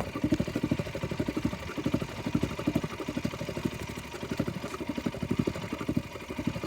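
KTM RC 200's single-cylinder engine idling while the bike stands in water, its exhaust giving a fast, slightly uneven pulsing note.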